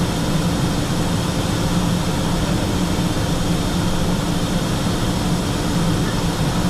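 Steady cockpit noise of a Learjet 45XR jet in flight: an even rush of airflow with a constant low engine hum underneath, unchanging throughout.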